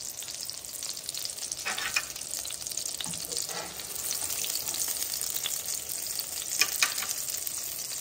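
Breaded chicken breast shallow-frying in avocado oil in a cast-iron skillet: a steady high sizzle. A few light clicks come from the metal tongs as the cutlet is lifted in the pan.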